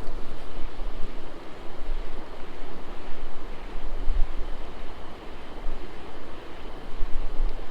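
River water rushing steadily over riffles, with wind gusting on the microphone about four seconds in and again near the end.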